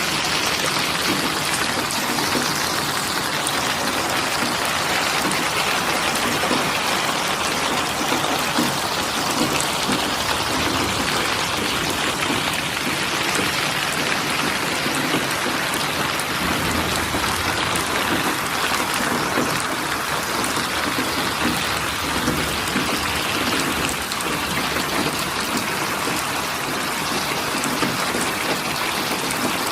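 Steady heavy rain falling, a dense even patter of drops on surfaces.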